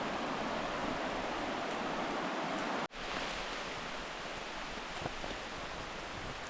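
Steady rush of flowing water. It cuts out abruptly for a moment about three seconds in, then comes back a little quieter.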